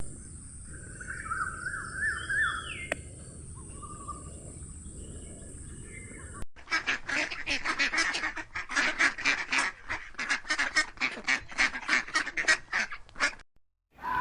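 A few short chirps over a steady high hiss. After a sudden change about six and a half seconds in, a fast run of harsh waterfowl calls follows, about three to four a second, and stops about a second before the end.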